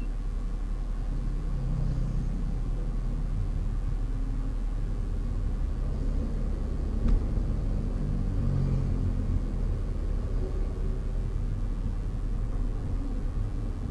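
Steady low rumble of a car driving along a road, engine and tyre noise, with a single sharp click about seven seconds in.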